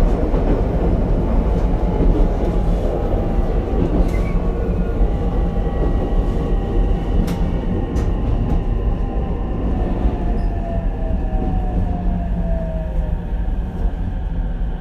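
Onboard running sound of an Ichibata Electric Railway 7000-series single-car electric train slowing for a station. Wheels rumble on the rails while the traction motor whine falls slowly in pitch.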